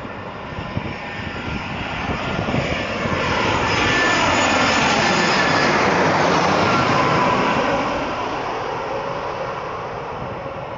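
Airplane on landing approach passing low overhead. Its engine noise swells over a few seconds, peaks in the middle, then fades, with the pitch sweeping downward as it goes by.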